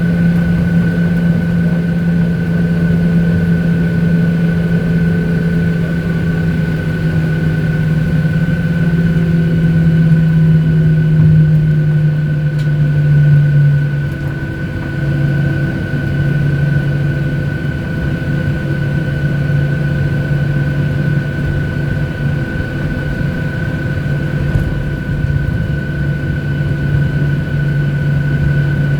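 Cabin noise of a Boeing 737-800 with its CFM56 jet engines running: a steady low hum, a constant high whine and an even rumble. The hum drops slightly about halfway through.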